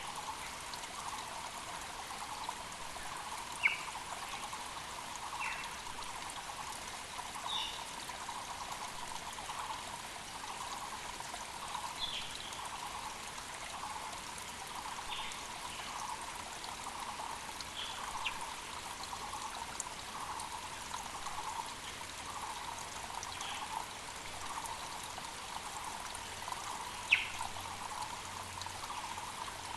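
Mountain creek trickling and splashing steadily, with forest birds calling over it in short chirps throughout. Two brief sharp sounds stand out, one about four seconds in and one near the end.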